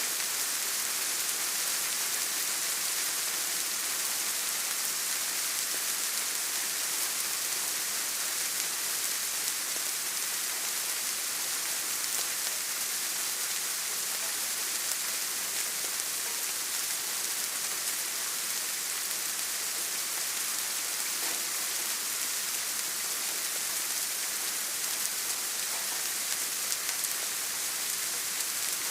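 Steady rain falling, an even hiss of many drops with no distinct single drips or breaks.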